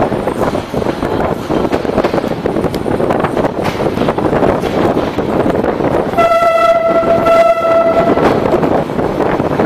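Commuter DEMU train running: a steady rumble of wheels on rail mixed with wind noise at the open window. About six seconds in, a train horn sounds one steady note for about two seconds.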